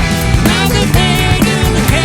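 Rock band playing live: drums keeping a steady beat under bass, held keyboard chords and a wavering lead line.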